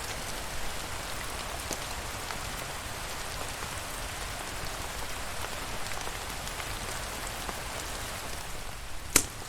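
Steady rain pattering, an even hiss of drops with faint scattered ticks, and a single sharp crack near the end.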